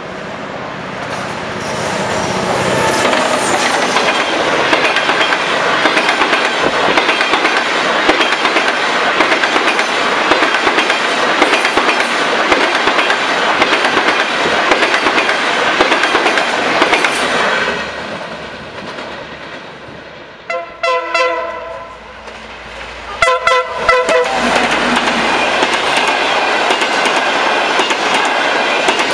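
Passenger train passing close by: a loud, steady rush of wheels on rail with clickety-clack. After a lull about two-thirds of the way in, a multi-tone locomotive horn gives two short blasts a couple of seconds apart, and then the loud rolling rush of passing coaches resumes.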